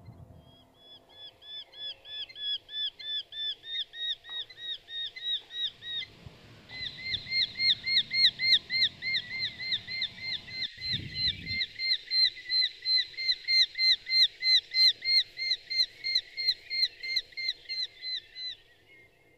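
A bird calling a rapid, evenly repeated high chirp, about four notes a second, with a short break about six seconds in, then louder, stopping near the end.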